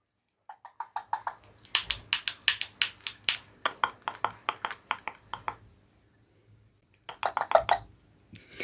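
Baby African grey parrot making a long run of short, sharp clicking sounds, about four to five a second, then a second short burst near the end.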